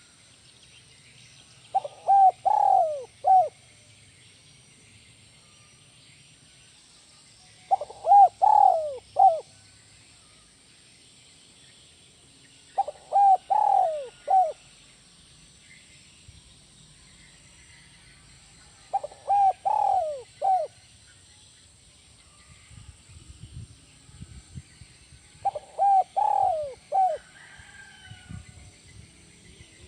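Spotted dove (tekukur) cooing in the 'kuk 1' style, each phrase ending on a single 'kuk' note: five phrases of several coos, about one every six seconds. Faint low knocks in the second half.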